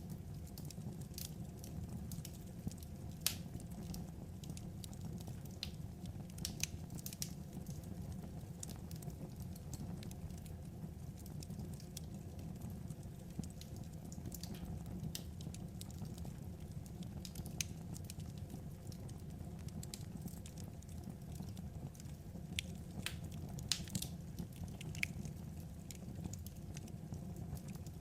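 Wood fire burning, with irregular sharp crackles and pops of burning logs over a steady low rumble.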